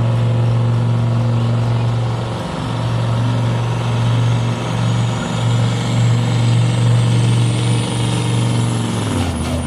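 Supersport-class pulling truck's diesel engine running flat out under load, a loud steady drone with a high whine slowly rising in pitch. Near the end the engine note drops sharply as the throttle comes off at the end of the pull.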